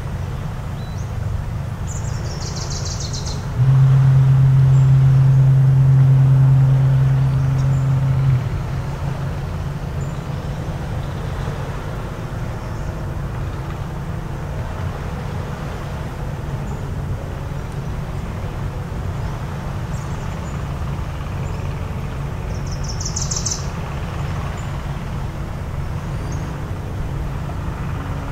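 A foghorn sounds one low, steady blast of about five seconds, starting a few seconds in and cutting off sharply. A bird chirps briefly before it and again near the end, over a steady low background rumble.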